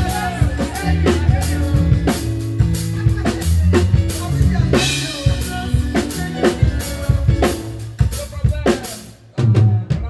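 Live band playing an instrumental passage: a drum kit with kick drum, snare and cymbal crashes over held low bass notes. About nine seconds in the music breaks off, then one last accented hit with bass rings out to end the song.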